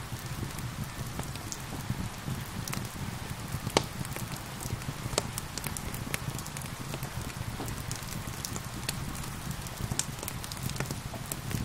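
Steady rain with a crackling wood fire, sharp pops and snaps scattered over a constant rushing hiss and a low rumble, a few louder pops standing out.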